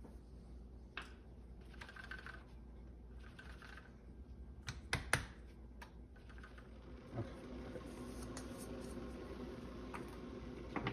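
Light clicks, taps and short brushing sounds of a coffee distribution tool working ground coffee in an espresso portafilter, with two sharp taps about five seconds in. A low steady hum comes in about seven seconds in.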